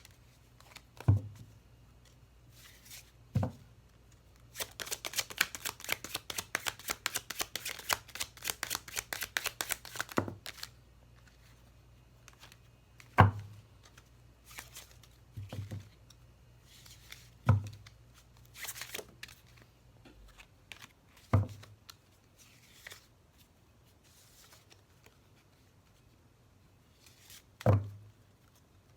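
Tarot cards being handled and shuffled: a quick run of card flicks from about five to ten seconds in, and several single soft thumps of the deck or cards being set or tapped down.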